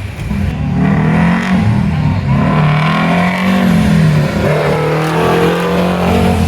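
Car engine revving, its pitch rising and falling a few times, then running steadily at a higher pitch through the second half.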